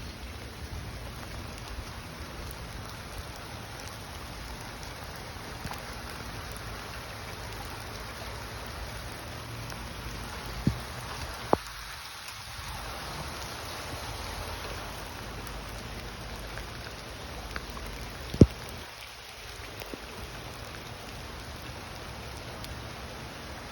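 Steady rain falling, an even hiss, with a few sharp taps standing out, two about eleven seconds in and the loudest about eighteen seconds in.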